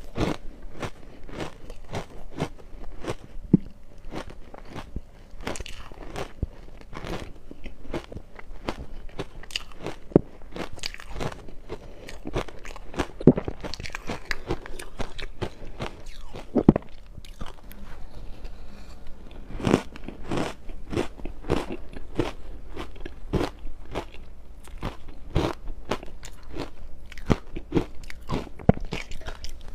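Crushed ice being bitten and chewed close to the microphone: a dense, continuous run of crisp crunches, several a second.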